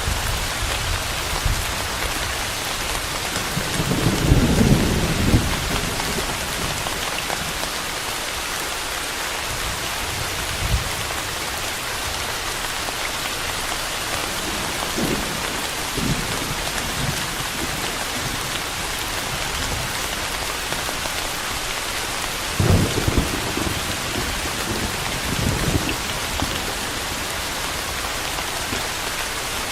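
Steady rain hissing, with low rumbles of thunder rolling in about four seconds in and again about twenty-three seconds in.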